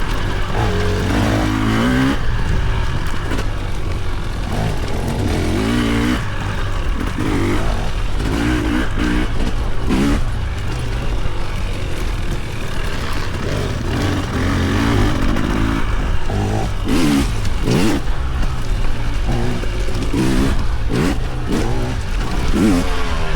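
Dirt bike engine revving up and down repeatedly as the bike is ridden over rough enduro trail, with a few sharp knocks.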